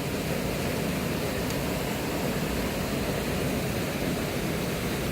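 Steady rush of a mountain stream, an even noise with no breaks.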